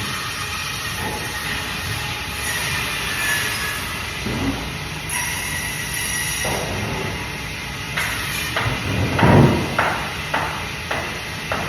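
Bandsaw running steadily while cutting fish, with a run of sharp knocks about twice a second in the second half and one heavy thump among them.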